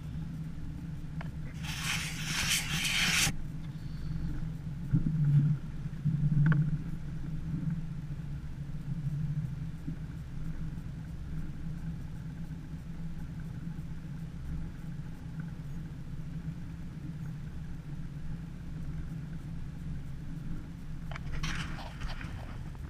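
A motor running steadily at low speed, with a loud hiss about two seconds in and a couple of heavy thumps around five and six seconds.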